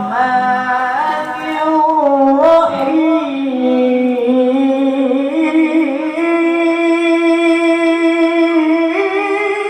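A male Quran reciter in a high register chanting one long melismatic phrase of tilawah, drawing out sustained notes that waver slowly and climb higher near the end.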